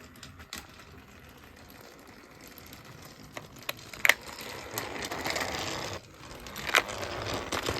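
Plastic toy train set mechanism clicking and ratcheting: a few sharp clicks, then two stretches of grinding, rattling whir from about halfway in.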